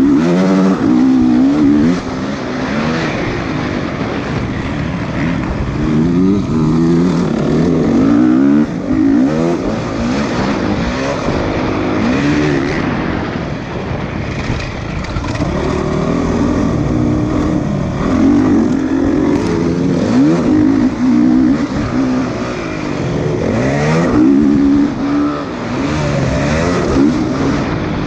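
Motocross bike engines revving up and down over and over, rising and falling in pitch every second or two, at times more than one engine at once.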